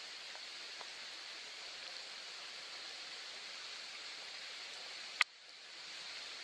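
Steady soft rain, an even hiss. About five seconds in there is a sharp click, after which the rain drops away and fades back up.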